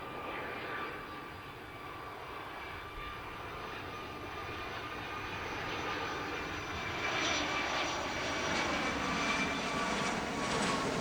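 Boeing 757-200 jet airliner approaching with its engines at approach power: a steady whine over a rushing noise that grows louder as the aircraft comes nearer, thickening over the last few seconds.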